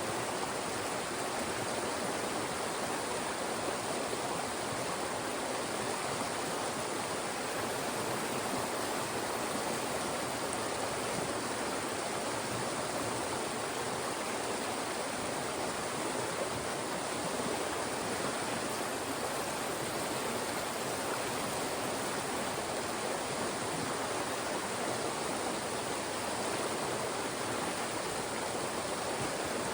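Fast-moving mountain stream rushing and splashing through narrow channels between rocks, a steady full-bodied water noise.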